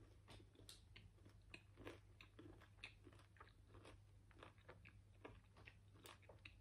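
Faint, close-up chewing of a thick piece of Lindt popcorn milk chocolate: irregular small crunches and wet mouth clicks.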